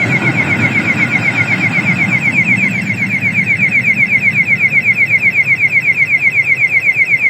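Railway level-crossing warning signal: a loud electronic chirp repeating rapidly, about six times a second. Under it, the low rumble of a passing train fades away over the first few seconds.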